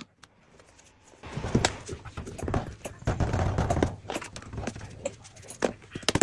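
Infant formula powder being tipped out of its can, with scattered knocks and rustling of the can being tapped and shaken. It starts about a second in.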